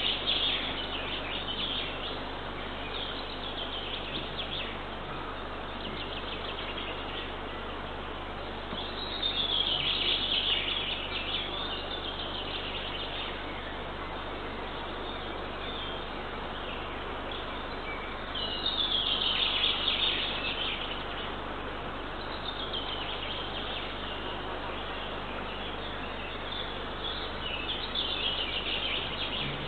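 A songbird singing repeated short phrases that fall in pitch, every few seconds, with two louder phrases about a third and two thirds of the way in, over a steady background hiss.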